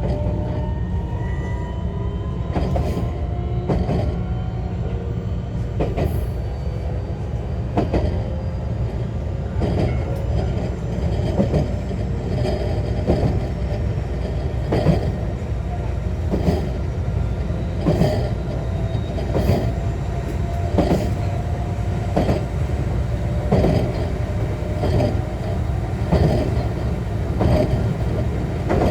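JR West 125 series electric railcar running, heard from inside the car: a faint tone from its Toyo IGBT inverter-driven traction motors slowly rises in pitch as the train gathers speed. The wheels click over rail joints at a quickening pace.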